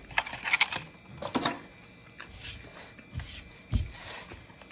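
A person chewing a bite of blueberry muffin close to the microphone: short clicking mouth noises in the first second and a half, then two dull low thumps near the end.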